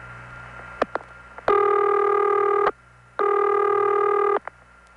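Telephone line audio from a call cut through to a CX-1000 community dial office: a couple of switching clicks, then two buzzy, harmonic-rich tone bursts, each just over a second long and about half a second apart, and a last click.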